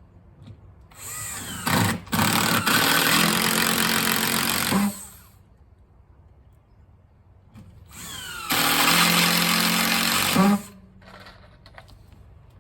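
Electric drill running into a composite deck board twice, about four seconds and then three seconds, each time spinning up with a rising whine, then holding a steady pitch and stopping suddenly.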